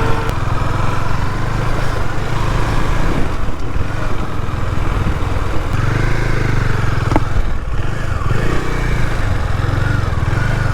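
KTM Duke 250's single-cylinder engine running as the motorcycle is ridden, its pitch rising and falling briefly a few times.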